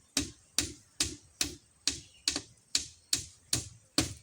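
Hammer driving nails into the coop framework: steady, even hammer blows, about ten sharp strikes at roughly two and a half a second.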